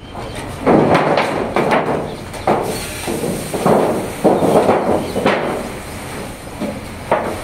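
PET plastic flake washing machine running, with a steady background and repeated irregular clattering knocks about once or twice a second.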